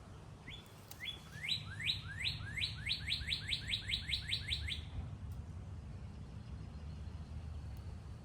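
A songbird singing one phrase of about a dozen rising whistled notes that come faster and faster, lasting about four seconds.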